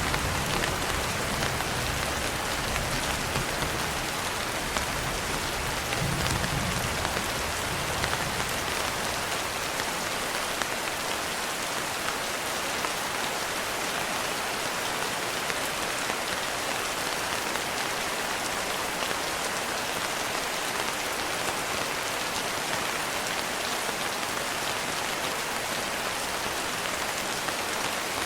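Steady rain falling, an even hiss of drops. A low rumble of thunder dies away over the first eight seconds or so.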